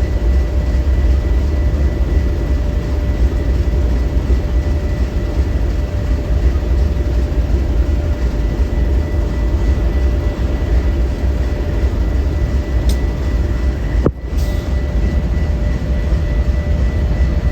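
Train passing close by, a loud steady rumble with a faint steady whine over it.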